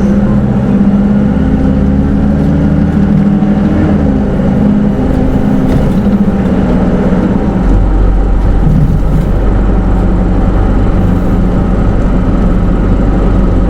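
Interior running sound of a Hino Rainbow II automatic-transmission diesel bus on the move, heard from inside the passenger cabin. The engine note holds and rises slightly, then about halfway through changes to a steady low rumble.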